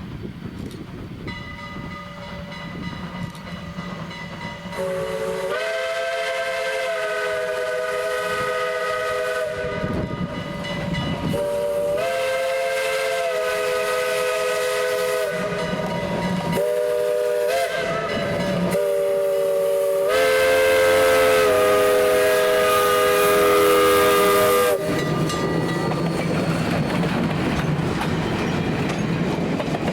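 Little River Railroad #1, a small 0-4-0 steam tank engine, sounding its chime steam whistle in a long, long, short, long pattern, the grade-crossing signal, over the steady noise of the moving train.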